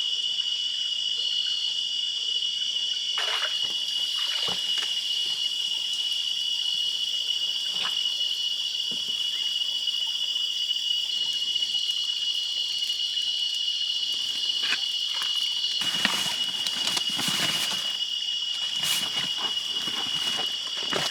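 Steady high-pitched insect chorus droning without a break in the forest. Scattered brief rustles and knocks sound over it, more of them in the last few seconds.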